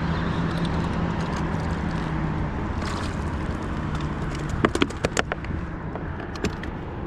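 Steady wind rumble on the microphone, with a quick run of sharp clicks and knocks about two-thirds of the way through and a few more near the end.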